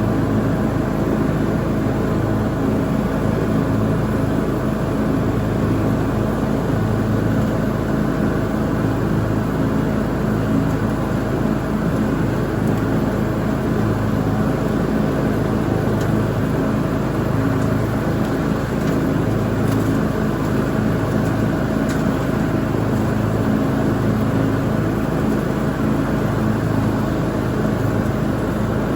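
Lawn mower engine running steadily at a constant speed while mowing.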